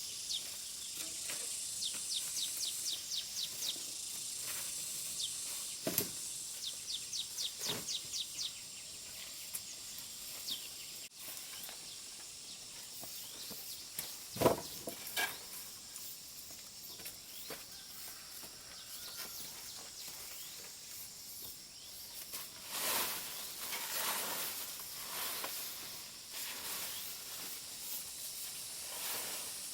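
Countryside ambience: a steady high insect hiss, with two quick runs of high chirps early on and again about seven seconds in. A few sharp knocks, the loudest about halfway through, and a stretch of rustling a little past twenty seconds.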